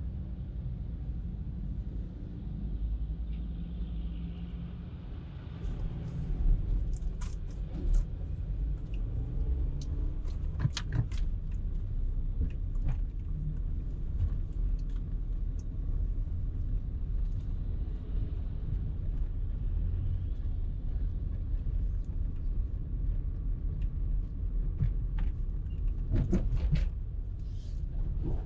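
Car on the move in traffic: a steady low rumble of engine and tyres on the road, with scattered sharp clicks and knocks, most of them between about six and thirteen seconds in and again near the end.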